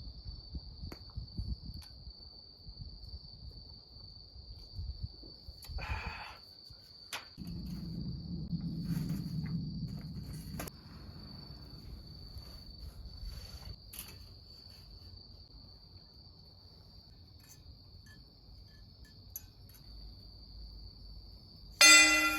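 Crickets trilling, a steady, unbroken high-pitched chirr, with scattered low knocks and crackles during the first few seconds. A loud sound with several pitches starts abruptly just before the end.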